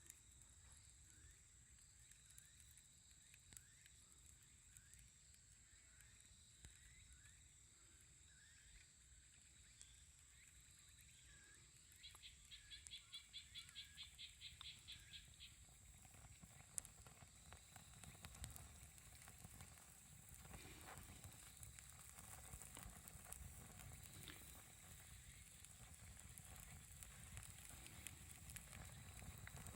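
Near silence: faint outdoor ambience with soft, regularly repeated animal chirps and a brief pulsed trill about halfway through, and faint scattered clicks that grow a little louder near the end.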